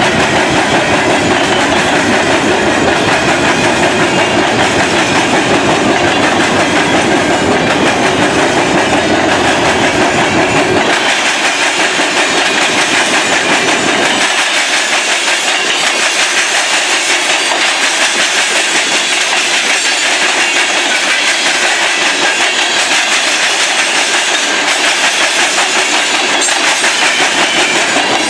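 Freight train cars rolling past, their wheels clattering steadily on the rails. The deep rumble drops away about halfway through, leaving the higher clatter and rattle.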